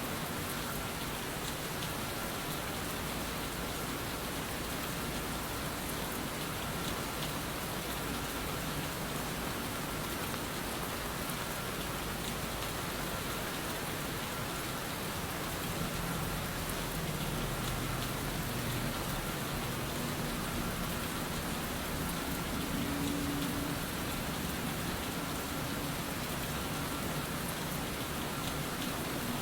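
Steady background rain: an even, continuous hiss of rainfall.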